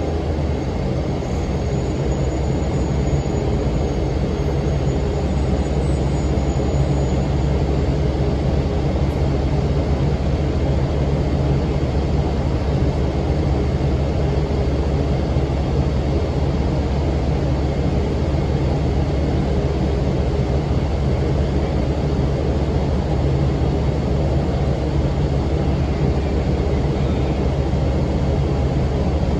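Steady low drone of a 2006 NABI 40' LFW transit bus's Cummins ISM diesel engine running, with its engine cooling fan running.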